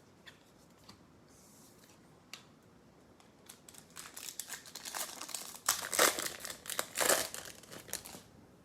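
Baseball card pack wrapper being crinkled and torn open by hand, starting about three and a half seconds in and growing louder, with the loudest crackles near the end.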